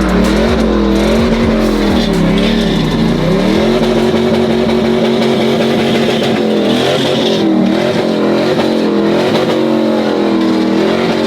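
Truck engine held at high revs during a burnout, its pitch wavering up and down as the throttle is worked, over a steady hiss of tire noise.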